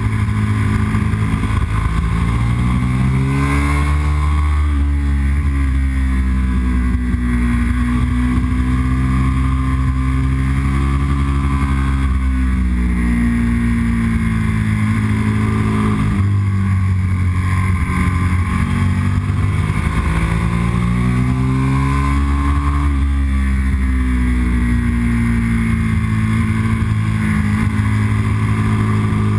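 Yamaha R1's inline-four engine running under load as the bike is ridden up a winding mountain road, its pitch climbing and dropping with the throttle through the bends, three broad rises and falls, over a steady low rumble.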